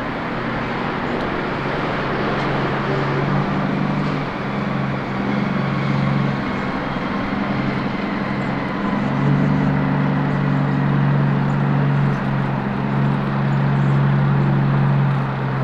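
Road traffic noise: a steady wash of passing vehicles with a low engine hum that swells and eases.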